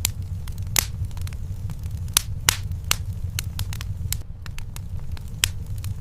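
Wood fire burning in a fireplace: irregular sharp pops and snaps over a steady low rumble, the loudest pops a little after two seconds in.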